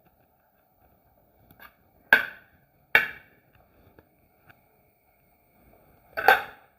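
Utensil knocking against a dish three times, sharp clinks with a short ring: two about a second apart, then a third a few seconds later.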